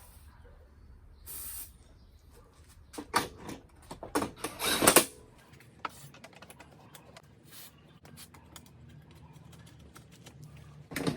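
Workshop handling noises: a cluster of loud knocks and scrapes about three to five seconds in, then a run of light, rapid clicks.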